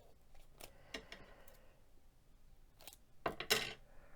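Tape being handled while a mug is taped up: a few faint light clicks, then a short, louder rasp of tape about three and a quarter seconds in.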